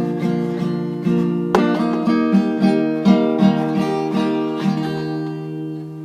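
Acoustic guitar playing the closing bars of a song, picked and strummed notes, then a final chord left to ring and fade away near the end.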